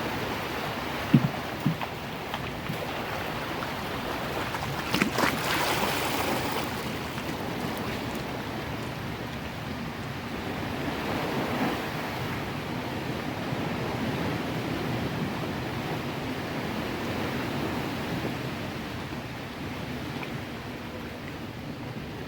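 Big sea waves surging and crashing against a cliff: a steady rush of surf that swells into a louder surge about five seconds in. Two brief knocks sound about a second in.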